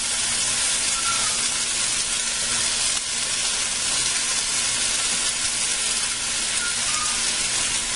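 Ground-beef patties frying in hot vegetable oil in a large stainless-steel pan: a steady sizzle.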